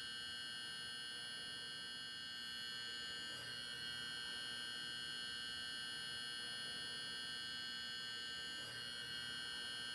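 Faint, steady electronic whine made up of several high, unchanging tones over a light hiss, with no train noise or voice.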